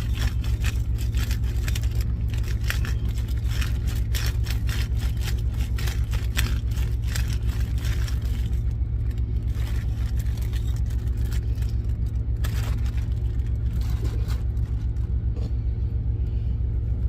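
Truck engine idling with a steady low, pulsing rumble. Over it, a run of small clicks and scrapes through the first half and a few more about twelve seconds in.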